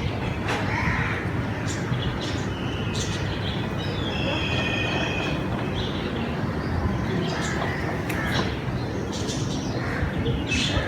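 Birds calling, with short chirps scattered through and one longer pitched call about four seconds in, over a steady rumbling background noise.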